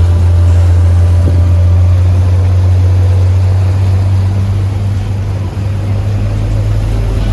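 Boat engine running steadily, a loud low drone with a hiss over it.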